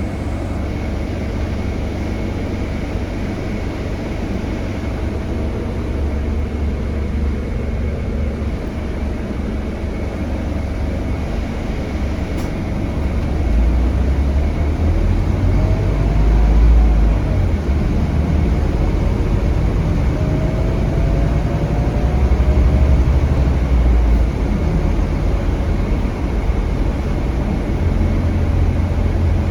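Scania K320HB bus's DC9 five-cylinder diesel engine and Opticruise gearbox running under way, heard from on board as a steady low rumble that grows louder about 13 seconds in. Faint whines rise and fall in pitch between about 15 and 23 seconds.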